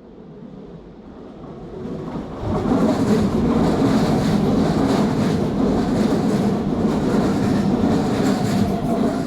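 Train running on the rails: a steady rumble with rail clatter that swells about two and a half seconds in and stays loud.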